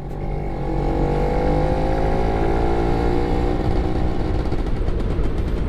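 Two-stroke Yamaha F1ZR motorcycle engine running under way, its note holding fairly steady.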